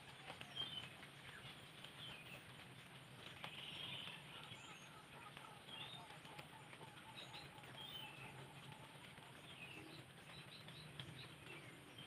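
Faint, scattered chirps and short calls of small birds, with a steady low hum underneath.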